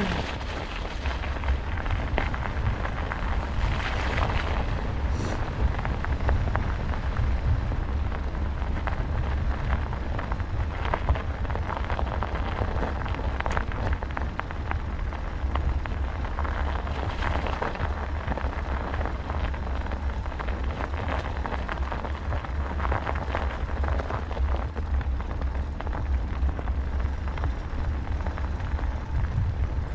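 Wind rumbling on the microphone of a moving bicycle, over the steady crackle of tyres rolling on a rough track.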